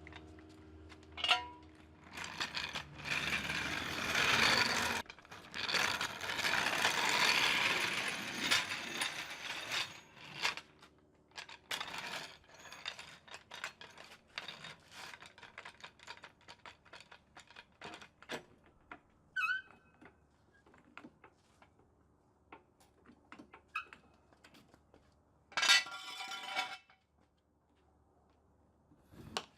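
Motor oil being poured from a bottle into the engine's oil filler, as a noisy pour through the first several seconds. This is followed by many small clicks and knocks of caps and bottles being handled, and a short louder scrape near the end.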